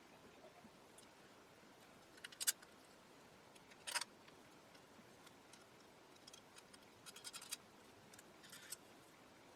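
Faint clicks and scrapes of small metal parts and hand tools being handled while wiring a radio chassis. They come in short clusters: a few about two seconds in, one sharper click about four seconds in, and a run of small clicks around seven seconds in.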